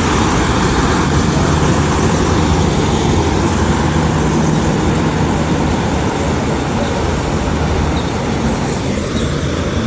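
Steady, loud vehicle and road noise with a low engine hum.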